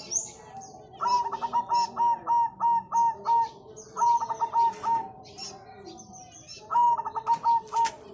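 Diamond dove cooing in three quick runs of short, even notes, the first run the longest, with faint high chirps in the background.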